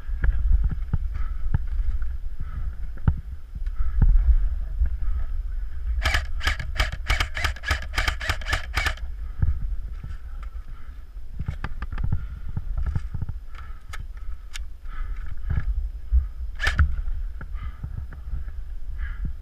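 Airsoft gun shots: a quick string of sharp snaps at about five a second for some three seconds, starting around six seconds in, with scattered single snaps before and after. Under them runs a steady low rumble of wind on the microphone.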